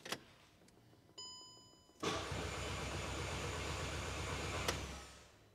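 A click, a short beep, then the Mk5 Golf GTI's 2.0 TFSI (BWA) engine cranking on the starter for about three seconds without catching, and the cranking stops. It is a no-start: the injectors are not firing or letting fuel through, and the spark plug tips are dry.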